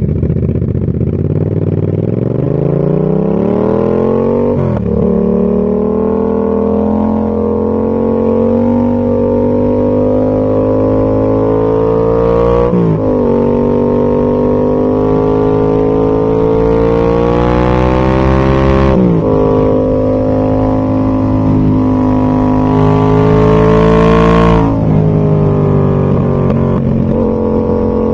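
Yamaha MT-07's parallel-twin engine through a Zard full exhaust system, accelerating up through the gears. The engine note climbs steadily, then drops sharply at each upshift, about 5, 13 and 19 seconds in. It then holds a steadier pitch, with one more drop near the end.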